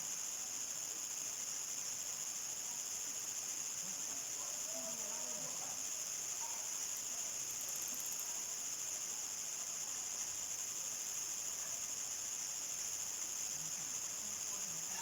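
Crickets singing in a steady, unbroken high-pitched chorus, with faint scattered sounds lower down.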